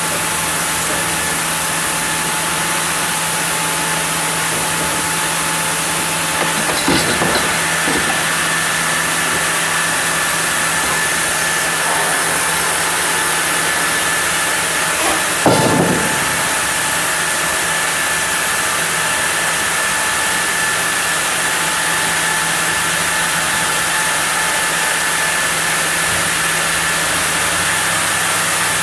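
Sawmill saw running steadily through a block of zelkova hardwood, with a constant hum and a high whine, and two brief knocks, one about seven seconds in and one about halfway through.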